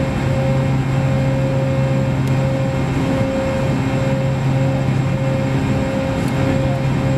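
Boeing 929 jetfoil's gas turbines and waterjet propulsion heard from inside the passenger cabin, running steadily: a continuous hum with several fixed tones and no change in pitch.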